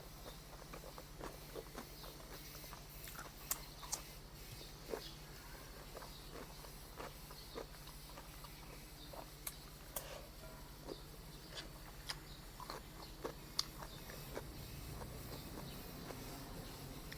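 Close-miked eating: irregular small clicks and smacks of chewing and mouth sounds, a few of them sharper, over a steady low electrical hum.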